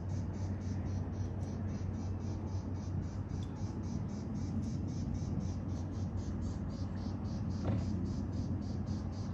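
An engine idling steadily, with a rapid, even high-pitched pulsing of about five beats a second.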